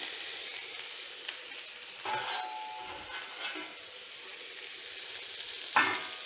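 Sliced onions and green chillies sizzling steadily in hot oil in a kadai, with a few metal clinks from a steel spoon and plates. The loudest clink comes near the end.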